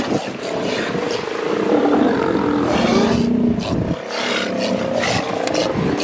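A seal colony of sea lions and elephant seals calling: several loud, overlapping low bellowing calls, rasping and continuous, with a short break about four seconds in.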